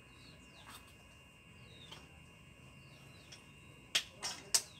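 Small birds chirping in the background, with short falling chirps repeating. About four seconds in come three sharp clicks in quick succession.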